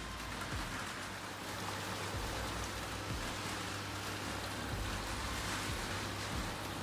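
Vestel washing machine running a wash, water and laundry sloshing steadily in the turning drum over a low, steady motor hum.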